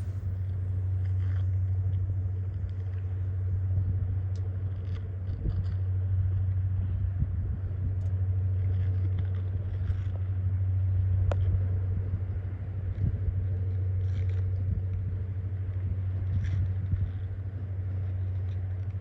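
A tugboat's diesel engine droning, a steady low rumble that holds level throughout, with a few faint ticks above it.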